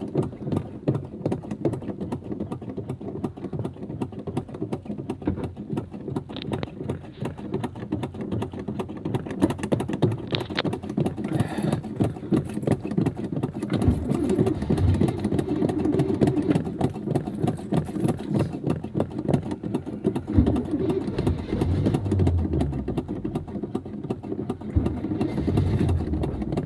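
Starter motor cranking a cold carbureted Chevy truck engine at about −20 °C in a rapid, even chug. The engine nearly catches now and then but does not start, a hard cold start on a carbureted engine.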